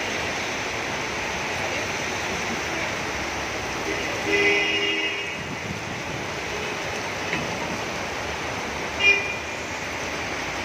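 Steady hiss of heavy rain and wet street traffic, with a vehicle horn sounding for about a second about four seconds in and a short toot near the end.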